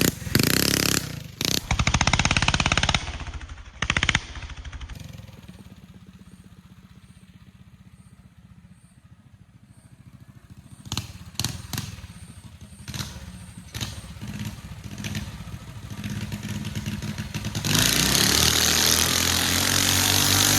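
Mini bike's single-cylinder Tillotson 212 engine running hard, fading to a faint drone as the bike moves away, with a few sharp knocks as it comes back, then loud again for the last few seconds.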